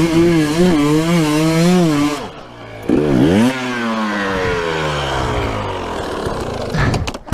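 Enduro dirt bike engine revving unsteadily, dropping sharply about three seconds in and revving up again, then its pitch sinks slowly as it labours under load, typical of a bike pulling up a steep climb, before cutting off near the end.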